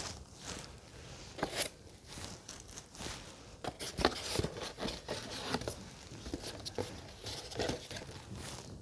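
Packaging being handled and unpacked: irregular rustling and crinkling with scattered light clicks and taps.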